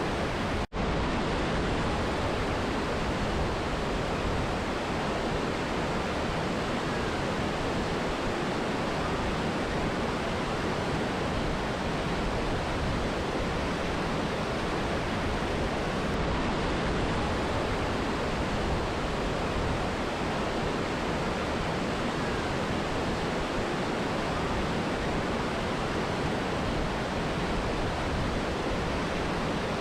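Rushing water of a mountain river and waterfall: a steady, dense roar with no variation, broken only by a momentary dropout a little under a second in.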